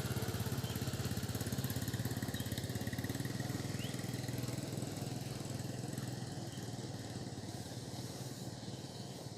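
A small engine running steadily with a fast, even pulsing hum, slowly fading away.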